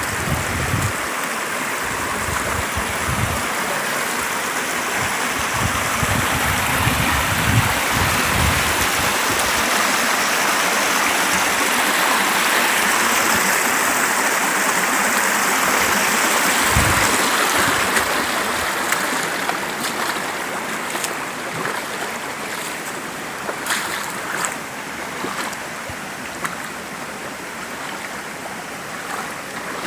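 Creek water rushing over rock at a small waterfall in full flow, a steady rushing noise that eases somewhat after about 18 seconds. A few low bumps sound in the first seconds.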